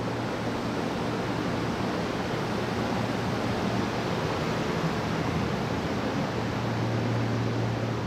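Steady low electrical hum with an even hiss from trains standing at a covered station platform, the hum growing a little stronger near the end.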